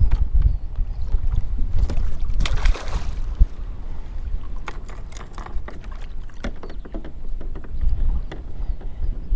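Wind buffeting the microphone with a heavy low rumble, over small knocks and taps around a fishing kayak on the water. A brief hiss comes about two and a half seconds in.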